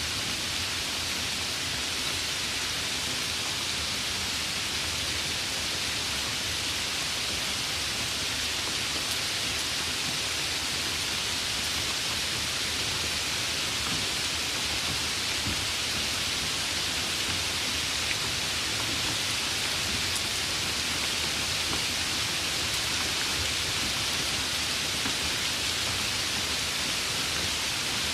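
Steady rain, an even hiss that holds constant throughout with no distinct thunderclaps.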